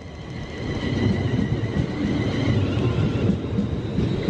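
Passenger train running into the platform: a steady rumble of wheels and running gear that builds up about half a second in, with a faint high whine above it.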